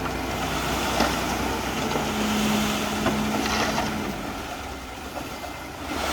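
Diesel engine of heavy earthmoving machinery running, with a few scattered knocks, growing quieter near the end.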